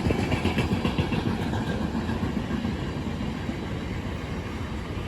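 A freight train passing, a steady low rumble with no break.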